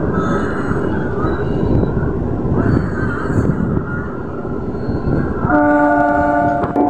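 Passenger train running at speed, the rumble of wheels on rails and rushing air heard through an open coach doorway. About five and a half seconds in, the train's horn sounds one steady blast lasting just over a second.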